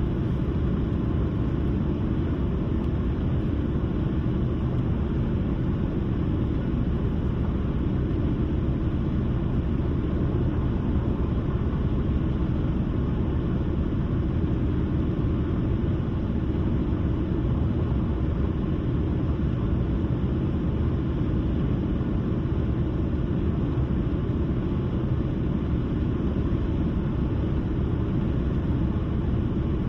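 Road noise from a car being driven: a low, steady rumble that stays even throughout.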